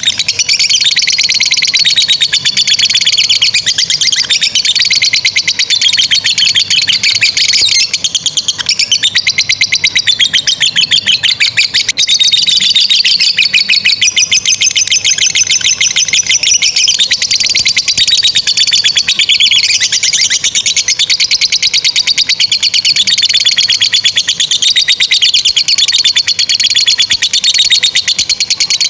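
Lovebirds ngekek: long, unbroken runs of very rapid, high-pitched chattering trills that waver up and down in pitch without a pause.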